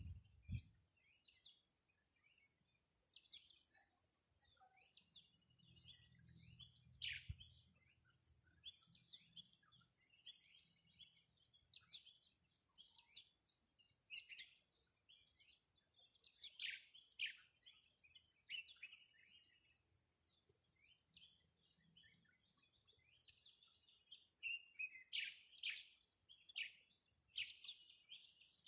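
Small birds chirping, a busy stream of short, high calls with quick rising and falling notes. There are a couple of low thumps right at the start.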